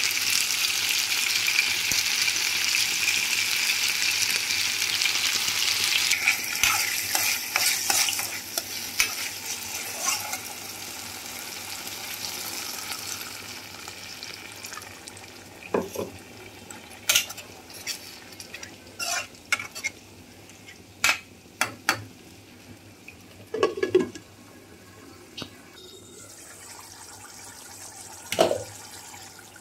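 Chicken pieces sizzling in hot oil in a pan, the hiss fading away over the first dozen seconds. Then a steel spoon clinks and scrapes against the pan several times as a thick onion-tomato masala is stirred.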